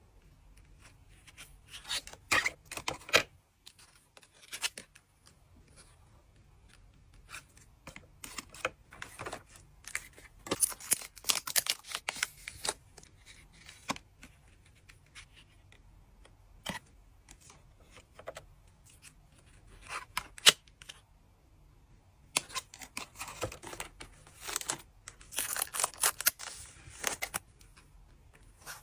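My Little Pony trading card packs being opened by hand and the cards handled and slid against each other, in irregular bursts of rustling, tearing and clicking with short pauses between.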